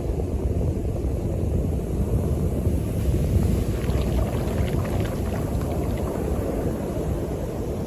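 North Sea surf at the shore with a steady low rumble of wind on the microphone, and a hiss of water washing up the beach about halfway through.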